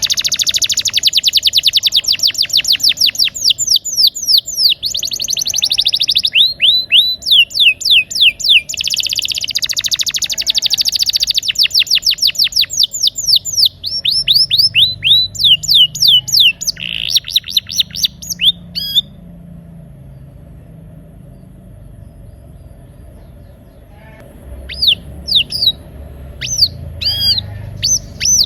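Domestic canary singing a rolling song of fast trills, long runs of rapidly repeated sweeping notes. The song breaks off about two-thirds of the way through and resumes a few seconds later with sparser, separate notes.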